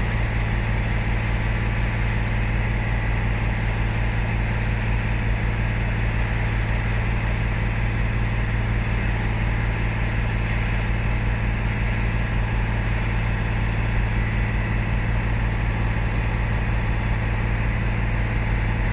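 Volvo B9R bus's diesel engine idling steadily with a low, even hum.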